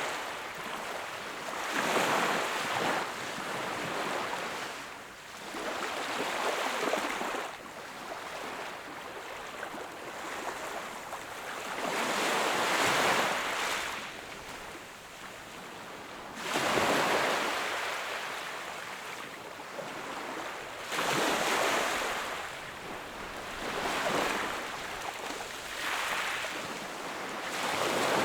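Small waves breaking and washing onto the shore, each wash swelling and fading every few seconds, with light wind on the microphone.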